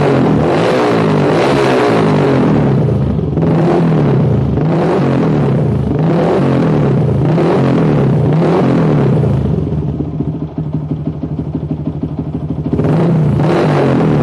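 Yamaha MX King 150's single-cylinder four-stroke engine breathing through an aftermarket exhaust, revved repeatedly with throttle blips that rise and fall. Near the middle it settles to idle for about three seconds, then revs again.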